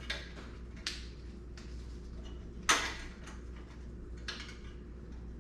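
A few short clicks and clacks, the loudest a sharp clack nearly three seconds in, as the retaining spring clip of an Audi A4 front brake caliper is worked back into place.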